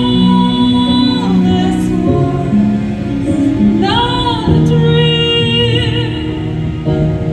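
Live symphonic metal band playing, with a female lead voice singing long held notes over sustained chords.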